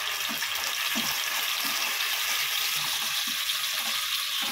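Ginger-garlic paste sizzling steadily in hot oil in a nonstick frying pan, with soft strokes of a silicone spatula stirring it about once a second.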